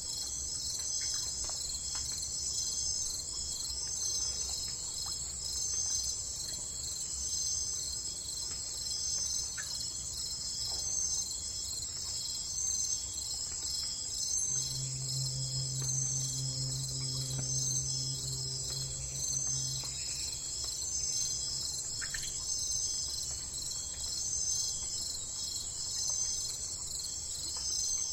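Steady, pulsing high-pitched chorus of insects, likely crickets, with a few faint chirps. About halfway through, a low steady hum rises under it for about five seconds, then fades.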